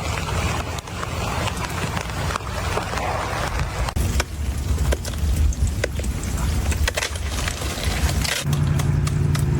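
Ice-coated tree branches cracking and snapping over a steady low rumble. A low steady hum joins about a second before the end.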